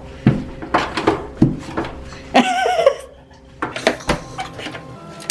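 A run of sharp clicks and knocks from things being handled, with a short voice exclamation about two and a half seconds in.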